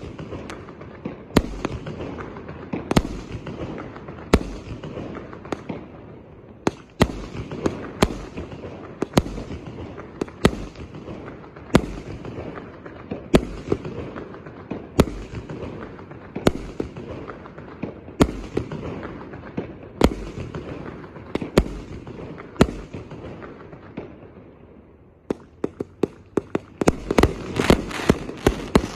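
A 1-inch, 198-shot firework cake firing shot after shot, each a sharp bang about every second or so, with a continuous crackle between them. Near the end it speeds into a rapid volley of many shots close together, the cake's finale.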